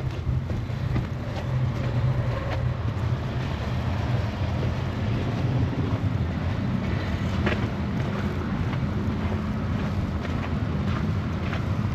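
Strong wind in a snowstorm buffeting the microphone: a steady low rumble, with scattered short sharp crunches, more of them in the second half.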